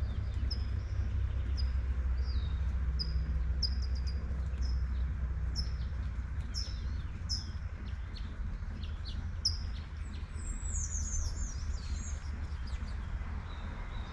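A bird chirping again and again with short high notes, with a quicker burst of higher twittering about ten seconds in. Under it runs the steady hiss of light rain and a low traffic rumble.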